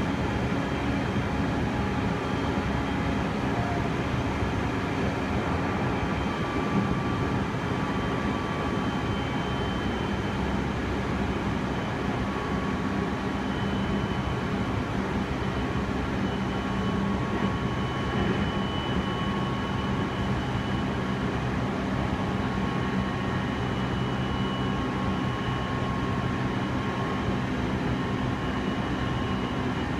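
Interior running sound of a Meitetsu 3100 series electric train travelling at speed: a steady rumble of wheels on rails with faint steady tones from the drive laid over it.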